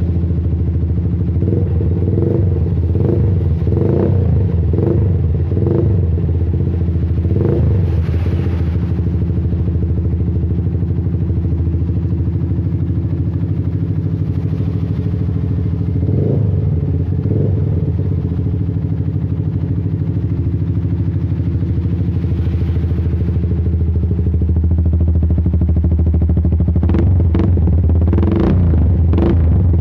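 Motorcycle engine running through a Raptor racing exhaust with a full baffle, idling steadily with short throttle blips now and then. The full baffle is meant to keep the note mild (adem).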